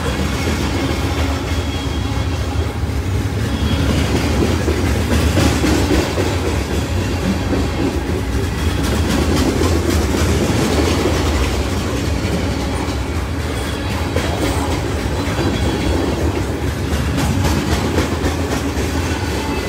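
Grain train's covered hopper cars rolling past at track side: a steady rumble of steel wheels on rail with a continuous clickety-clack of wheel clicks.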